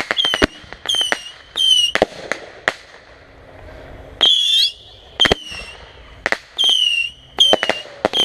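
Consumer fireworks going off: a series of short whistling shots that each fall in pitch, mixed with sharp pops and cracks, in quick irregular succession.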